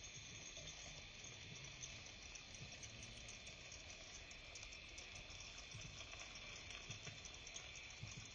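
Faint, steady chorus of insects shrilling, with rapid fine pulsing, over a low rumble.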